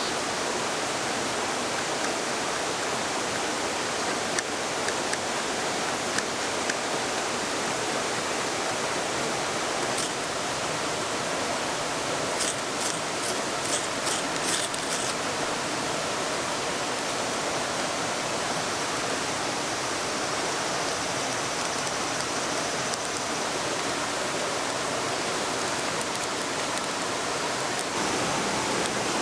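A mountain stream rushing steadily over rocks. About halfway through there is a quick run of about seven light clicks.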